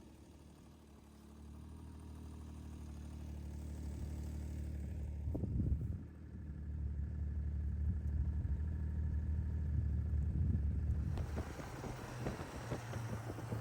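Snowmobile engine running with a steady low drone that grows louder over several seconds, with a brief dip about halfway. Near the end the drone gives way to a broad rushing noise.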